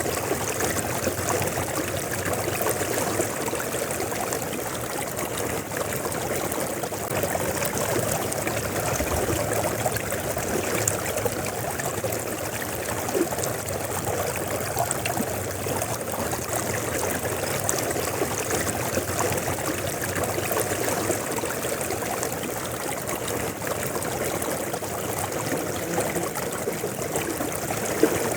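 River water flowing steadily, a continuous rushing and trickling with no breaks.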